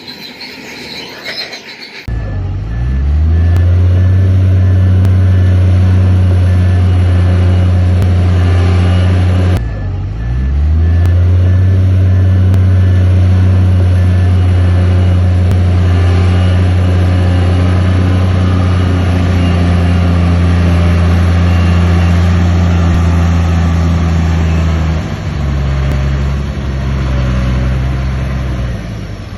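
Heavy diesel engine of earthmoving machinery running hard. It comes in loudly about two seconds in and revs up, drops briefly and picks up again about ten seconds in, then changes note near the end. For the first two seconds it is quieter, with a high-pitched metallic squeal.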